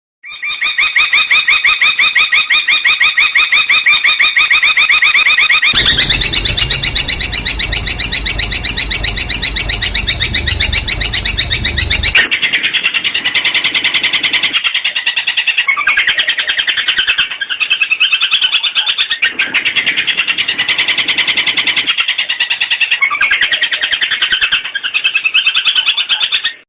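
Long-tailed shrike (cendet) in loud, full song: a fast, even trill of repeated notes, then a harsh rattling chatter for about six seconds, then rapid chattering phrases broken by short pauses. This is the shrike's song packed with mimicked calls of other birds, the kind used as a training tape for songbirds.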